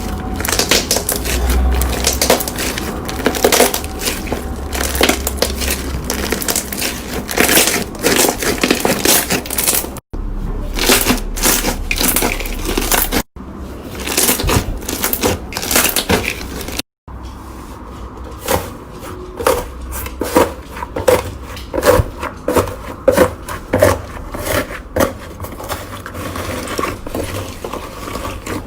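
Slime being squeezed and poked by hand, giving a dense run of crackling clicks and wet pops. It cuts off abruptly three times. In the last part the pops come more sparsely, about two a second.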